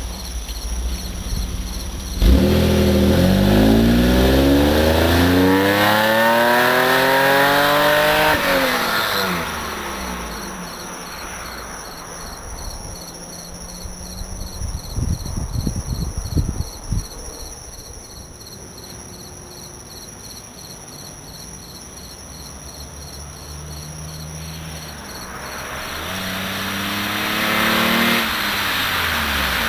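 Mitsubishi 3000GT's twin-turbo V6 running through a 3SX downpipe with the catalytic converter deleted. About two seconds in it comes on hard, its note rising in pitch for some six seconds under acceleration before backing off. It then runs quieter, with a short patch of sharp crackles midway, and climbs in pitch again near the end.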